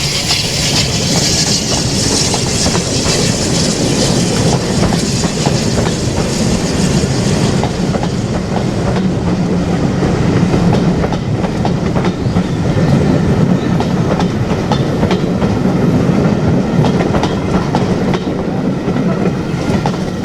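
A train running past close by, its wheels clattering over the rail joints. A bright hiss in the first few seconds fades out about eight seconds in.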